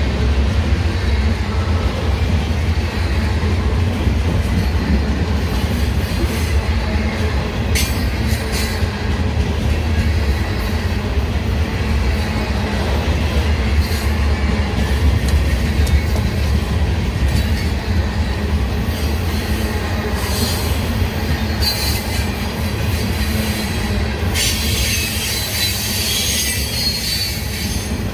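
A train rolling past close by with a steady low rumble, its wheels squealing high on the rails now and then, longest for a few seconds near the end.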